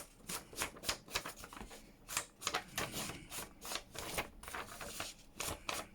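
Rubber stamp dabbed on an ink pad and pressed onto paper: a run of short, irregular taps and clicks with paper rustling.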